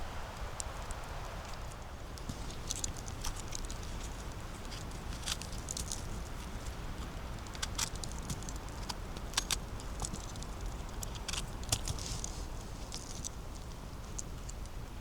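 Footsteps on a dry forest floor: leaves and small twigs crackling and snapping underfoot in irregular, scattered clicks.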